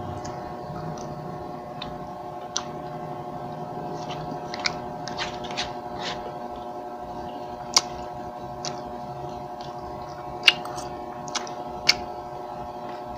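A person chewing food close to a lapel microphone, with scattered sharp clicks of a fork against a foil food tray, over a steady electrical hum.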